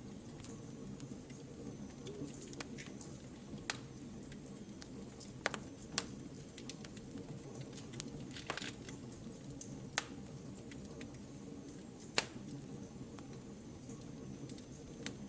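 Wood fire burning in a fireplace: a steady low rumble of flames with scattered sharp crackles and pops, a few louder snaps standing out.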